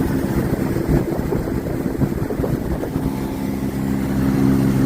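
Motorboat engine running steadily under way, with a heavy rush of wind and water noise. The engine hum is partly buried in the rush for the first few seconds and comes through clearly again near the end.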